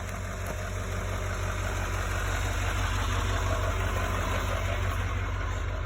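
2019 Chevrolet Silverado 3500 HD's 6.6-litre turbo-diesel engine idling steadily, gradually getting louder.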